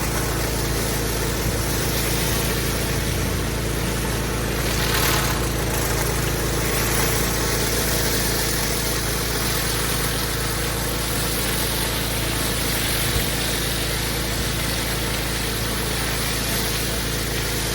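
Pressure washer running steadily: an even engine hum with continuous hissing water spray.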